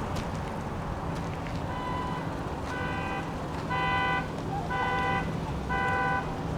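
Car horn sounding in even half-second beeps about once a second, the pulsing pattern of a car alarm, starting about two seconds in over a steady hiss of wind and traffic.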